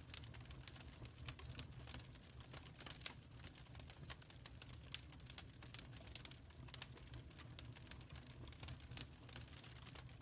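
Wood fire crackling in a firepit: faint, irregular small pops and snaps over a low steady rumble.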